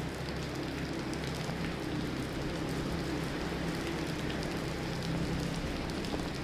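Steady rain falling, an even hiss with faint scattered drop ticks and a low hum underneath.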